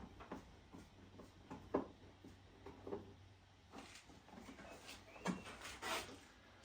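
Scattered clicks, scrapes and rubbing of a screwdriver and plastic parts being handled as screws are driven into a pressure washer's plastic housing.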